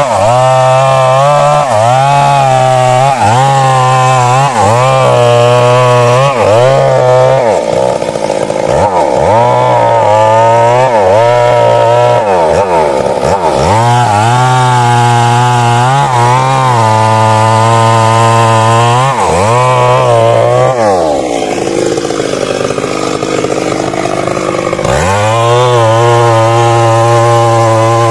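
Stihl MS 382 two-stroke chainsaw cutting wood at high revs, the engine pitch dipping and recovering again and again as the chain bites. About three-quarters of the way through the revs fall away for a few seconds, then climb back to full throttle.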